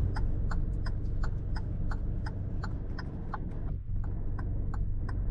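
Rapid, regular mechanical ticking, about five ticks a second, over a steady low hum.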